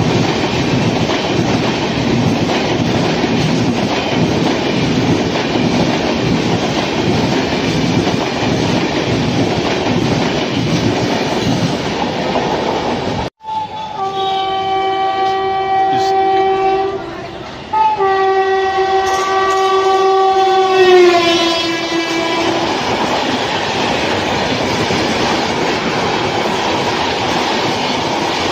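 Express train coaches rushing past at speed with wheels clattering over the rail joints. After an abrupt cut, an oncoming train's locomotive sounds two long horn blasts, the second dropping in pitch as the locomotive passes, and then its coaches run past with the same steady rush and clatter.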